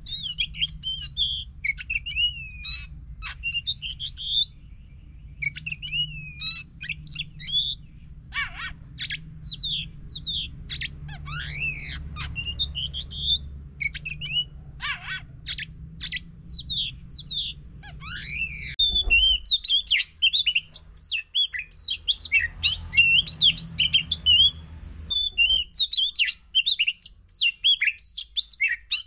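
Oriental magpie-robin (kacer) singing: quick, varied whistled phrases and sharp notes, broken by short pauses at first, then a dense, louder continuous warble from about two-thirds of the way through, used as a lure song to trigger a silent bird to sing. A low steady hum sits underneath.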